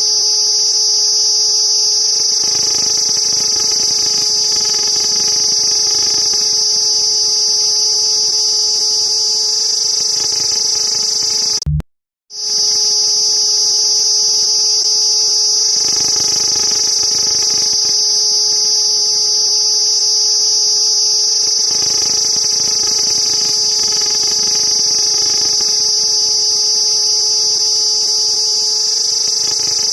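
Cicada buzzing in a steady, loud, high-pitched drone that cuts out for half a second about twelve seconds in, then carries on unchanged.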